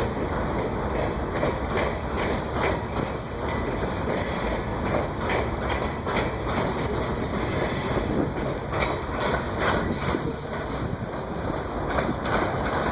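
Coal train's freight cars rolling past, steel wheels clicking steadily over the rail joints.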